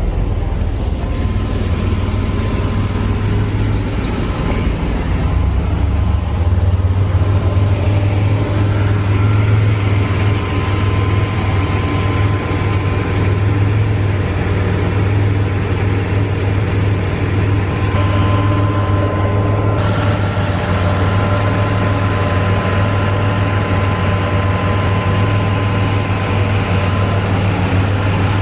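1987 Buick Grand National's turbocharged V6 engine running steadily, with a constant low hum and no revving.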